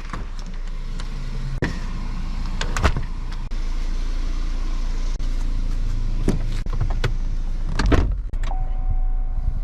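A vehicle driving: a steady low rumble of road and engine noise with scattered knocks and clicks. A steady tone sounds during the last second or so.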